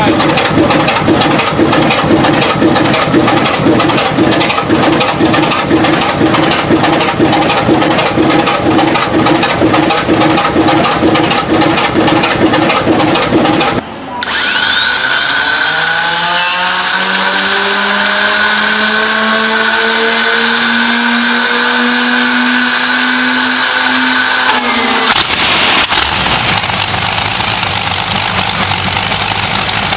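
Big engines in three abrupt clips. First, a large engine runs with a fast, even beat of firing strokes. After a sudden cut about halfway, a whine rises steadily for about ten seconds as a big engine spools up in a start. After another cut, a different engine runs steadily.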